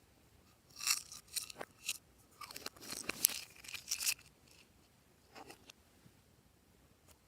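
Crisp crackling clicks and crunches from slime and its mix-ins being worked by hand, in two clusters of a second or two each, then one fainter crackle a little later.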